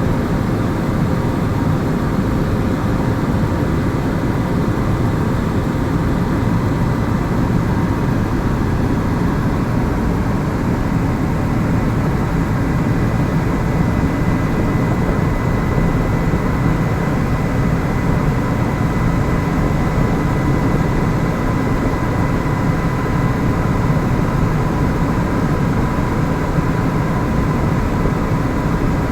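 Helicopter in flight, heard from inside the cabin: a loud, steady drone of rotor and engine with a faint steady whine above it.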